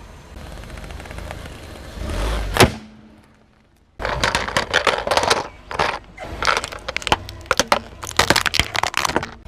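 Car tyre rolling slowly onto objects and crushing them: a low rumble swells to one sharp crack about two and a half seconds in. After a short lull, a rapid run of irregular crackling crunches follows.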